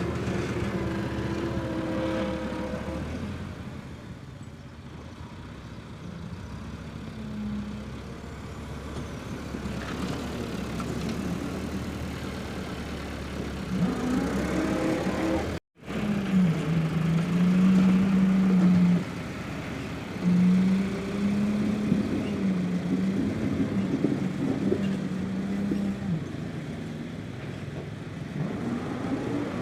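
Tractor engine working, its pitch rising and falling as it is throttled up and down, with a brief break in the sound about halfway through.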